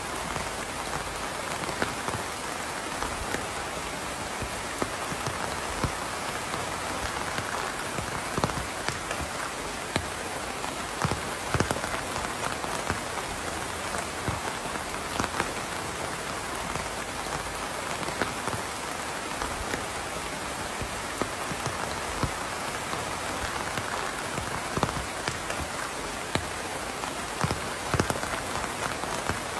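Steady rain falling on a surface, an even hiss with frequent distinct drops ticking through it.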